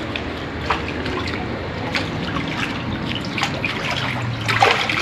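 Water splashing and trickling, with several irregular louder splashes, the loudest about four and a half seconds in.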